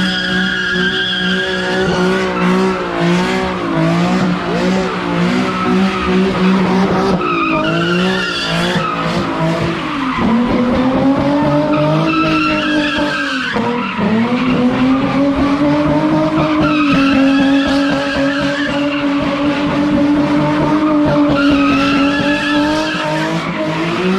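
A car engine held at high revs while the car spins donuts, its tyres skidding and squealing on the pavement. The revs sag briefly about ten seconds in and again around fourteen seconds, then climb back and hold steady.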